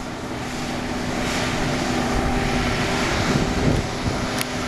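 Case 1085B Cruz-Air wheeled excavator's diesel engine running loud and steady, swelling louder for a few seconds as it works.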